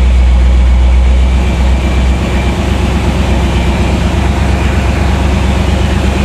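1983 Pontiac Trans Am's V8 running just after a cold start following winter storage. The deep low drone weakens about two seconds in and the running sound carries on steadily.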